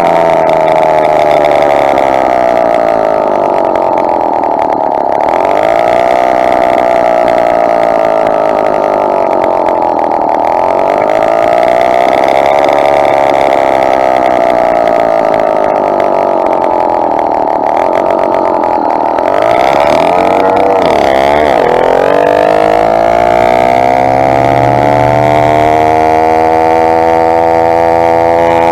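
Two-stroke motorized bicycle engine running while riding, its revs rising and falling every few seconds. About twenty seconds in the revs drop sharply, then climb steadily through the end.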